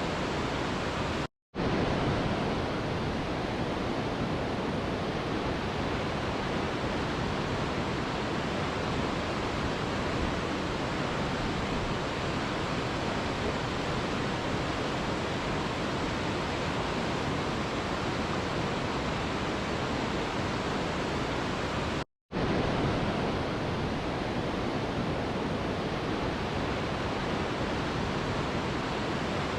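Steady rush of a mountain river's flowing water, an even noise with no distinct splashes. The sound cuts out completely for a split second twice, about a second and a half in and about 22 seconds in.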